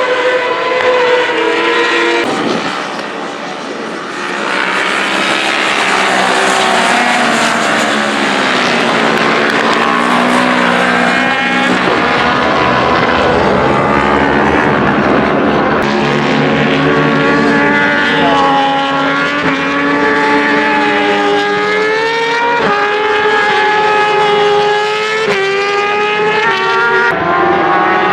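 Racing engines on track, several at once, their pitch repeatedly rising and falling as they rev through the gears and pass by. There is a brief lull a few seconds in before the engines swell again.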